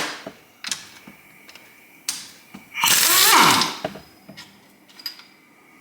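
Engine teardown work on a Kawasaki KZ1000 motor: a few sharp metal clicks of tools and parts, and about three seconds in a loud one-second power-tool burst that falls in pitch as it winds down.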